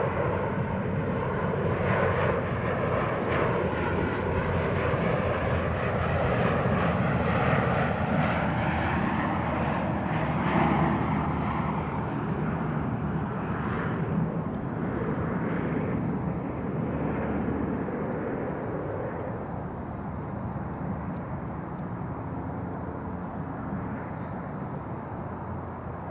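Bombardier Dash 8 Q400's Pratt & Whitney PW150A turboprop engines and propellers running through a landing: a steady drone with a rushing noise. It is loudest for about the first ten seconds, then gradually eases off.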